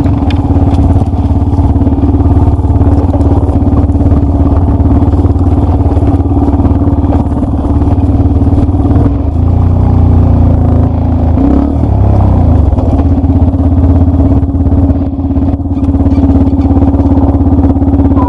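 Trail motorcycle engine running steadily under throttle; around the middle its note drops and wavers, then settles back to the same steady pitch.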